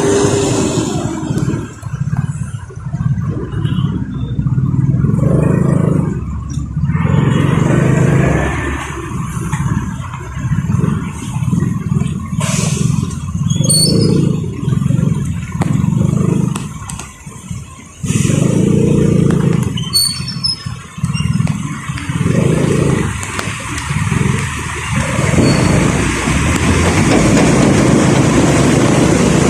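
A vehicle on the move: engine and road noise that swell and fall back every second or two as it speeds up and slows.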